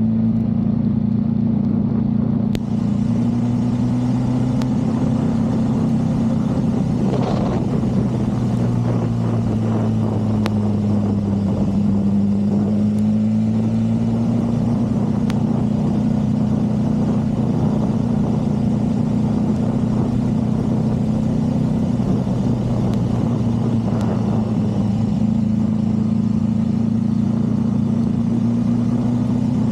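Motorcycle engine running steadily at low speed on a slow ride, its pitch drifting gently up and down as the throttle and road speed change.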